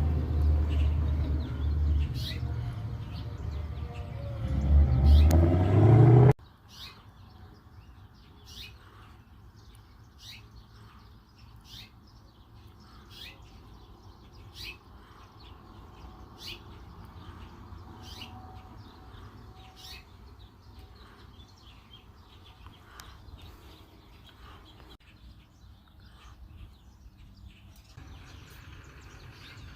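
A loud low rumble rises in pitch and cuts off suddenly about six seconds in. After that, birds chirp over a quiet background: short high chirps every second or so.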